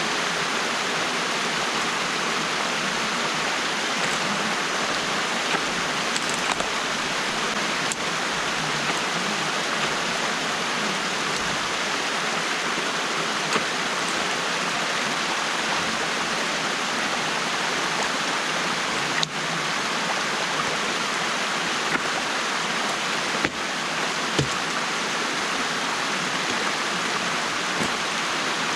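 Steady rush of stream water pouring through a beaver dam that is being opened by hand, with a few faint knocks now and then.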